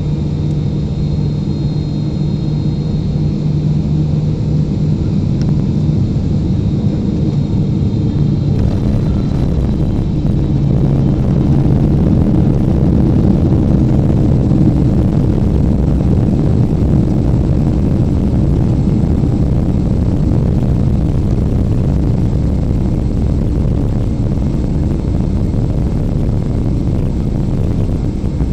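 Steady jet engine and airflow noise of a Boeing 777-300ER heard inside the cabin. A low hum fades out about ten seconds in, after which the noise grows a little louder.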